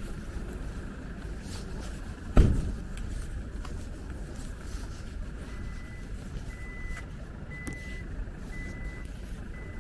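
City street traffic rumbling steadily, with one loud thump about two and a half seconds in. From about halfway, a high electronic beep repeats roughly once a second.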